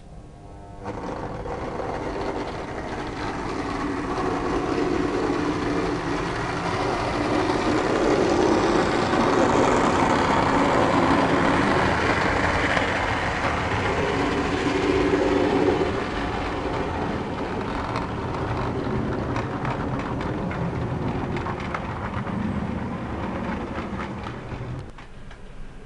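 OO gauge model diesel train running past on the track, its motor and wheels humming and rattling. The sound starts suddenly, builds to its loudest in the middle, drops a little and fades away near the end.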